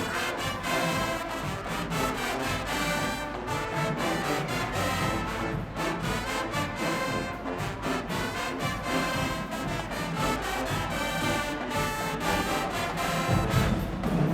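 High school marching band playing, brass section carrying the sustained melody over percussion. About thirteen seconds in, the sound gets fuller and a little louder in the bass.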